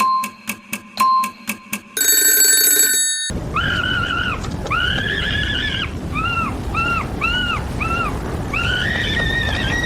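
Rapid knocking, about four knocks a second, then a brief bell-like chime. After that comes a steady rush of storm wind, with a run of short, high rise-and-fall monkey cries over it; the last cry is longer and rising.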